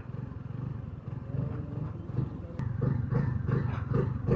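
Motorcycle engine running at low revs.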